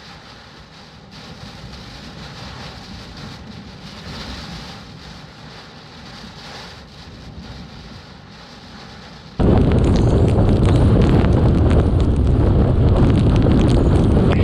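Typhoon wind and rain, fairly subdued gusting at first. About nine seconds in it cuts abruptly to loud storm wind buffeting the microphone.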